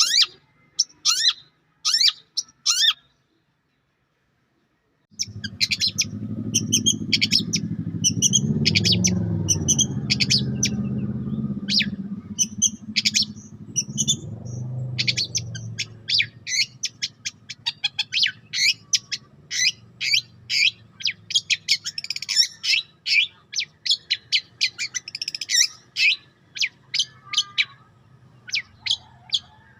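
A songbird's chirping, played as a bird-tutor track: many short, sharp, high notes in quick runs. It breaks off for about two seconds near the start, then resumes thick and fast over a low rumbling background.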